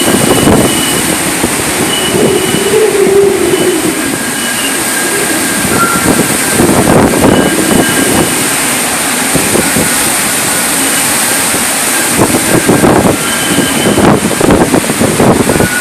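Typhoon winds blowing hard in repeated gusts, a loud noisy rush that surges and eases, with short thin high whistles coming and going.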